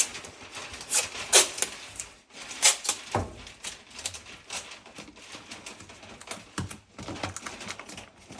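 Masking tape being handled while masking a cabinet opening: irregular crackling ticks and taps as it is pulled, torn and pressed into place.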